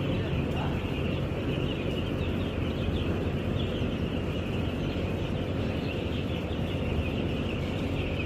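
A large flock of chickens in a poultry shed chirping and clucking continuously, many birds at once, over a steady low hum from the shed's ventilation fans.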